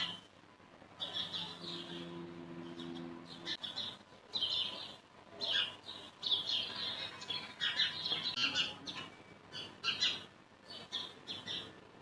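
Small birds chirping repeatedly in short high calls, with a brief low hum about two seconds in.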